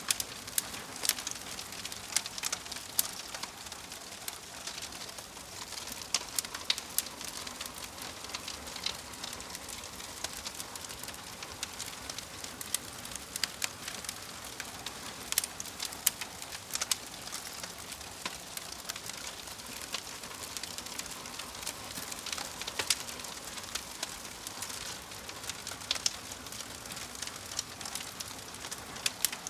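Wood fire in a fireplace crackling, with irregular sharp pops and snaps over a steady hiss of burning logs.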